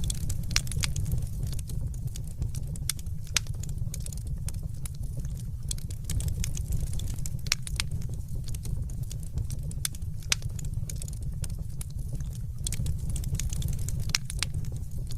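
Wood fire burning steadily, with a low rumble and frequent irregular sharp crackles and pops.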